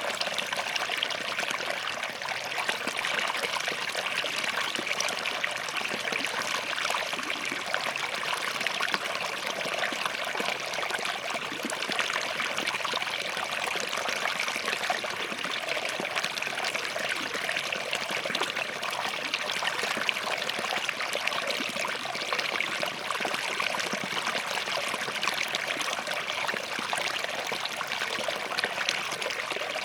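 Small forest stream running over and between rocks, a steady bubbling and trickling flow.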